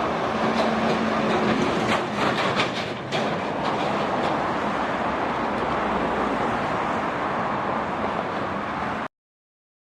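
Heavy truck traffic passing on a road: steady diesel engine and tyre noise, with a cluster of rattling clanks about two to three seconds in. The sound cuts off abruptly about nine seconds in.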